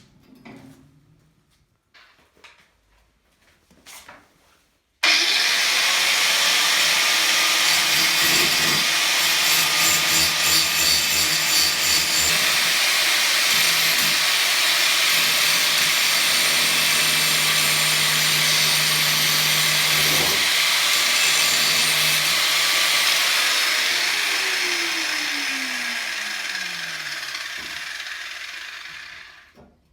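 Angle grinder switched on suddenly, grinding on the steel cart handle for about twenty seconds, likely taking paint off for a good welding ground. It is then released and spins down with a falling whine.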